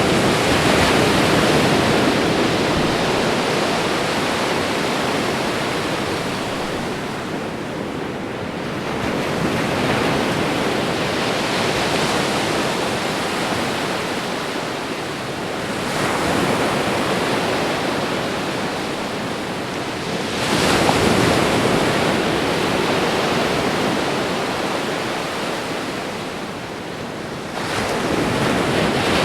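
Gentle ocean waves washing onto a shore. A new wave surges in every four to seven seconds, and each wash fades slowly as it draws back.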